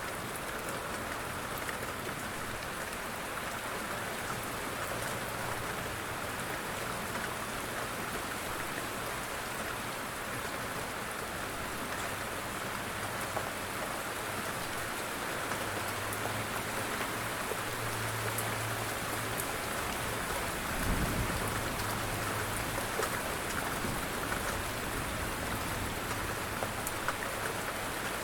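Light rain falling steadily, with a brief low thud about three-quarters of the way through.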